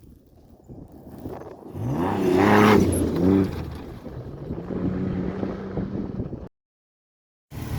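Off-road trophy truck's engine revving hard twice, pitch climbing and dropping as it is driven, then running at a steadier lower pitch. The sound cuts off abruptly near the end.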